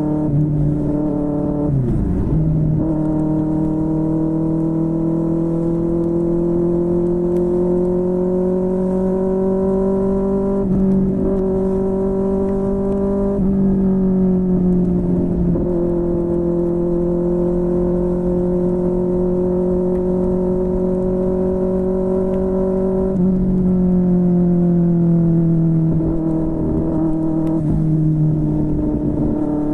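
QJMotor SRK600's 600 cc inline-four engine through a Yoshimura R11 exhaust, heard from on board while riding: a steady engine note that slowly climbs in pitch and then drops or steps every few seconds as the throttle and gears change.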